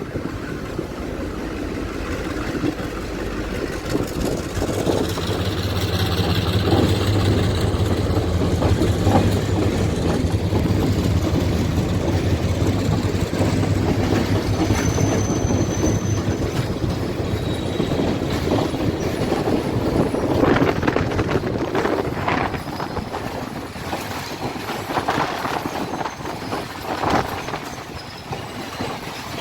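Train hauled by a Sri Lanka Railways Class M2 diesel locomotive on the move. A steady diesel engine hum fills the first half, with a brief high squeal about halfway through. In the later part the wheels click and knock over the rail joints.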